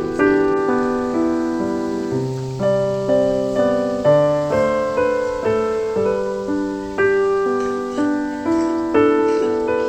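Background piano music: a gentle, slow melody of single notes and chords, each struck note fading before the next.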